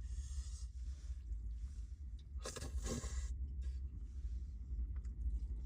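Strong wind buffeting as a steady low rumble, with a short rustling scrape about two and a half seconds in.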